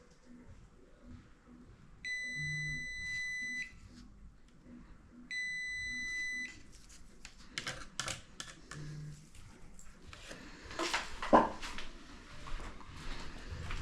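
Two long, steady, high-pitched electronic beeps a few seconds apart, followed by a run of irregular clicks and knocks from handling, with one sharper knock near the end.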